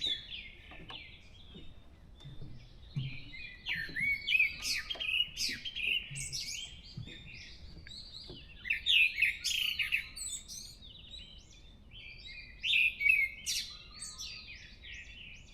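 Forest birdsong, led by a thrush singing quick, varied high chirps and whistles in three bouts with short pauses between.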